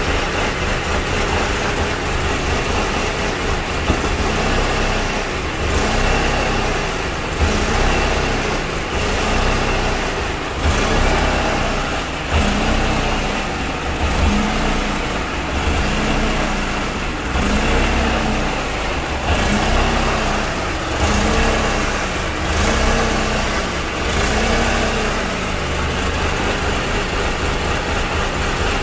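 Mercedes-Benz C200 four-cylinder petrol engine running at idle, the sound the owner presents as the engine having a fault. From about five seconds in until near the end, a tone rises and falls about every one and a half seconds, the loudness swelling with it.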